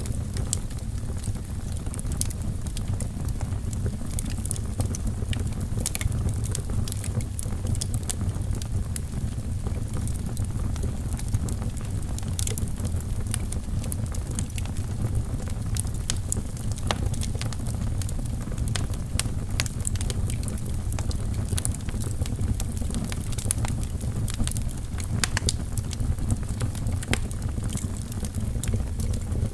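Wood logs burning in a fireplace: a steady low rumble of flames with frequent sharp, irregular crackles and pops.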